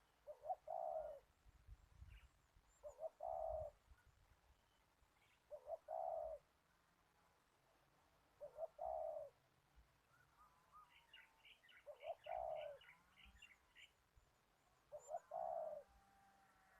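A dove cooing, repeating the same short call six times at a steady pace of about one every three seconds. Each call is a quick note followed by a longer coo. Between the fifth and sixth calls, another bird gives a quick run of high chirps.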